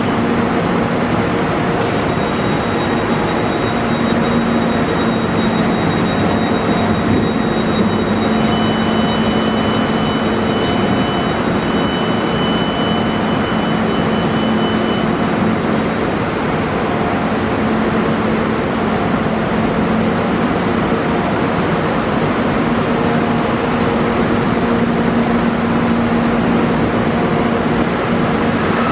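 Steady, loud mechanical noise of a train at the station, with a low hum and faint high whistling tones; one high tone stops about halfway through.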